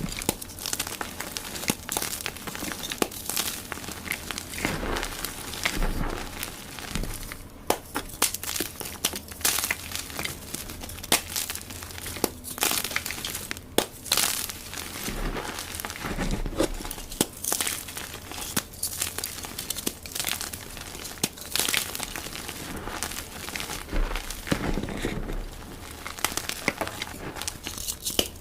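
Dyed gym chalk blocks being crushed, a dense, irregular run of crisp crunches and crackles.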